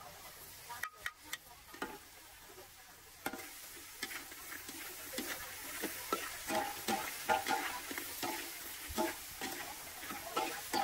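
Food frying with a steady sizzle, a utensil stirring and clinking against the pan in irregular clicks and scrapes, getting busier from about four seconds in.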